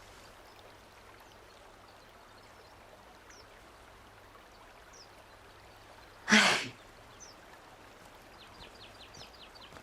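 Faint outdoor ambience with a few short, high bird chirps and a quick run of ticks near the end. About six seconds in, a loud, short rush of noise stands out.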